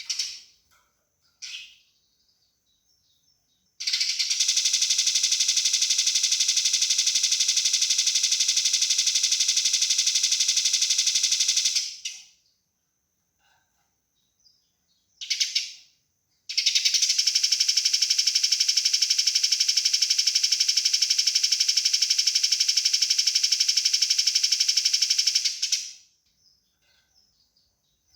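Eurasian tree sparrow's fighting chatter: a few short chirps, then two long runs of very rapid, tightly spaced harsh notes, each lasting about eight seconds with a pause between.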